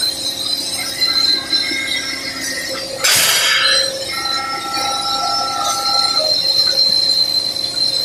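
Simba S7D longhole drill rig drilling rock with T-38 extension rods and a 64 mm bit: steady loud machine noise with high metallic ringing tones. A short, loud noisy burst comes about three seconds in.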